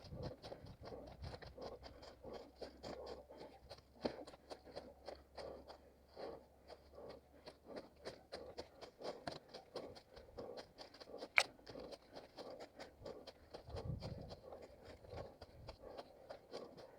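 A runner's footsteps crunching and scraping on rough ground in a quick, steady rhythm, with one sharp click about two-thirds of the way through.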